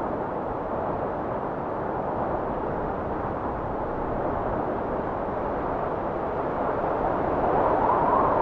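Blizzard wind blowing steadily, swelling into a gust with a higher whistling tone near the end.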